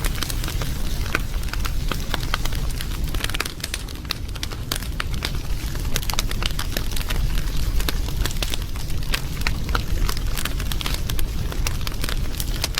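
Wood fire burning: a steady low rumble with frequent sharp, irregular crackles and pops.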